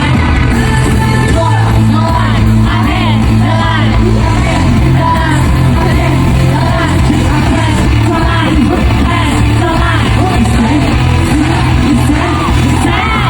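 Live K-pop concert music playing loud over a hall sound system, with singing and fans shouting and cheering along.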